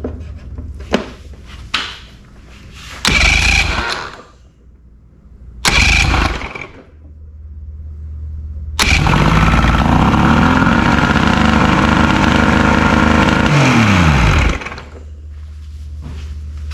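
Three-cylinder outboard motor being cranked by its starter in two short bursts, then catching about nine seconds in and running for about five seconds before its pitch falls away and it dies. It fires only intermittently on cylinder three, a sign of a spark fault in the new-coil ignition.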